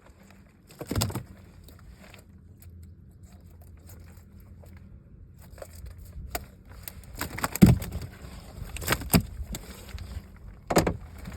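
Heavy thumps and clattering knocks in a boat: one about a second in, then a run of them over the last few seconds, with a low steady rumble underneath.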